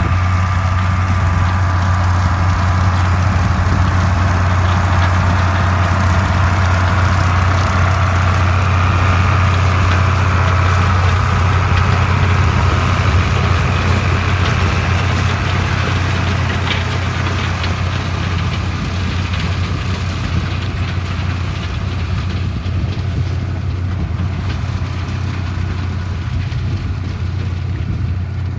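Engine of a farm machine running steadily, a strong low hum under a broad mechanical noise. It gets slightly quieter about two-thirds of the way through.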